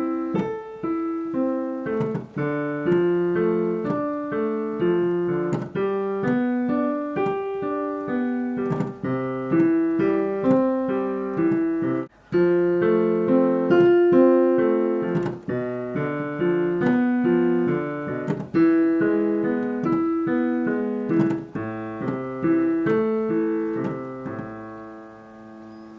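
Piano played unpedalled, a flowing left-hand broken-chord pattern of separate struck notes moving down through a cycle of chords across the full range, fading out near the end.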